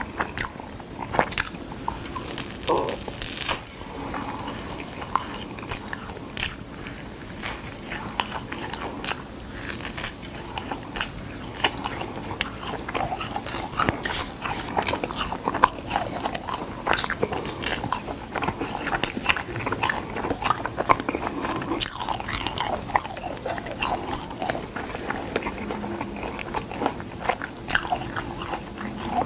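Dried gamtae seaweed being bitten and chewed close to the microphone: a continuous run of crisp crunches and crackles.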